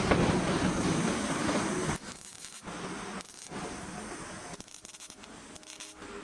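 Abrasive rubbing on a truck door's body panel, as in bodywork sanding. It is loud and continuous for about two seconds, then drops to quieter, broken strokes.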